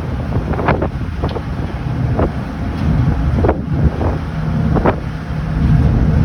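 Wind buffeting the microphone in irregular gusts over the steady low rumble of a ferry's engines.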